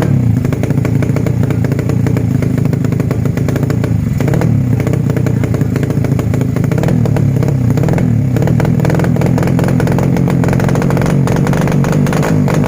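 Motorcycle engine running through an aftermarket DYN full-stainless exhaust with a 20 cm silencer, a steady, loud exhaust note whose pitch wavers slightly up and down.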